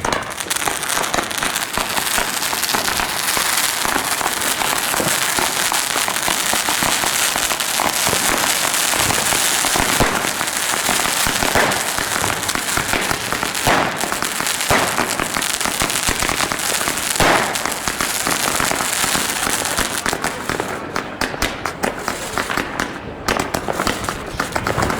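Fireworks going off in a dense, continuous crackle of many small bangs, with a few louder cracks scattered through the middle; the crackling thins out near the end.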